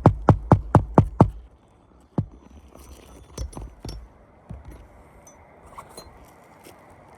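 Rapid hammer blows, about four a second, stopping a little over a second in, followed by scattered small metallic clinks and light taps, typical of roofing work on a shingle.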